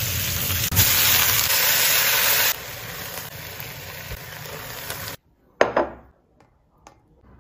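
Long green peppers frying in oil in a wok, a loud steady sizzle that drops to a softer hiss about two and a half seconds in and cuts off abruptly about five seconds in. A single light knock follows.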